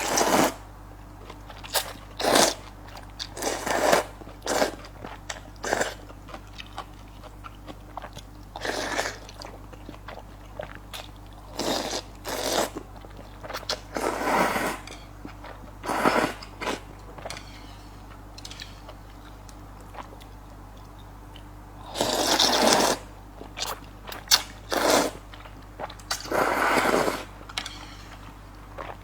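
Close-miked eating: crunchy bites and chewing at an irregular pace, with a few longer, louder noisy stretches, the loudest about two-thirds of the way through.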